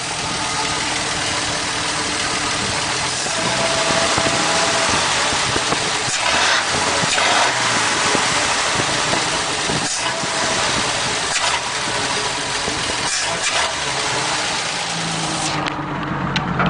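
Ford F3 pickup's 226 flathead inline-six running loud through a straight-pipe exhaust. A rushing hiss stays over the engine note until it drops away suddenly near the end, leaving a lower, steadier engine sound.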